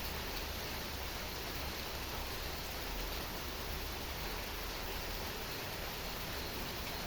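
Heavy rain falling as a steady, even hiss, with a low rumble underneath.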